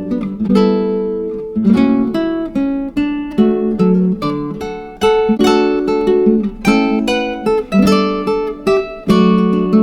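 Background music: acoustic guitar picking, plucked notes ringing and fading one after another.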